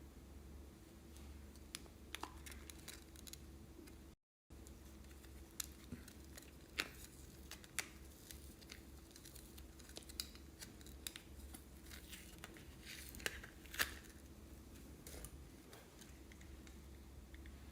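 Faint, scattered clicks and crinkles of slime and plastic being handled close up, over a steady low hum. The sound cuts out completely for a moment about four seconds in.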